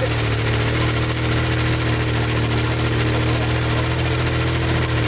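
Antique tractor engine running at a steady speed, an even low engine note with no change in pitch.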